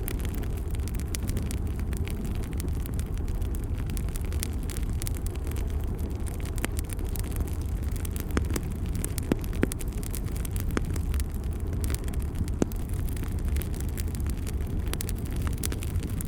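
Campfire burning: a steady low rumble of flame with scattered sharp crackles and pops at irregular times.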